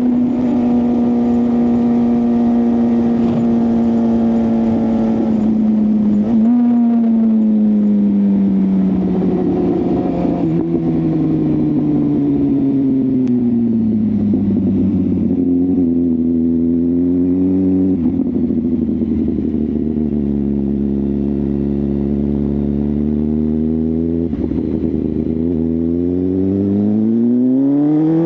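BMW S1000RR inline-four engine through a full exhaust system, on the move. It holds a steady note, then drops in pitch as the bike slows, with a few sudden pitch steps at the gear changes. Near the end it revs up steadily.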